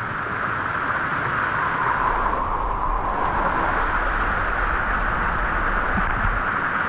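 Rushing water of a waterfall, a steady even noise.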